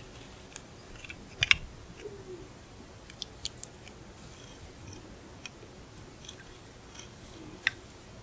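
Close-miked chewing and biting of raw seafood (raw abalone or soy-sauce-marinated shrimp): scattered sharp, crisp clicks and crunches, the loudest about one and a half seconds in and a cluster around three seconds.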